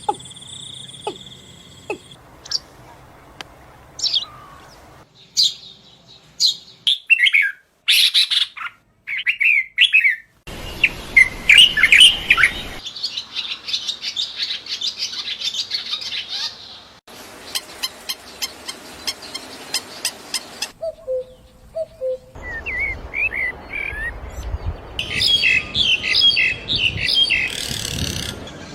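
Songbirds singing: a string of different birds' chirps, trills and whistled songs in short spliced segments, each cut off abruptly and replaced by another bird.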